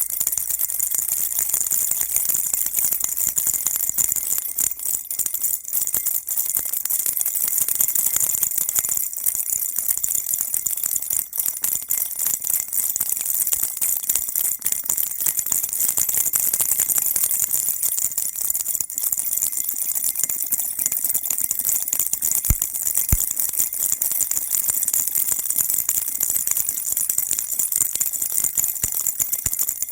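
Baby rattle shaken steadily and continuously, a dense, even, high-pitched jingling rattle with no pauses. Two small knocks sound about three-quarters of the way through.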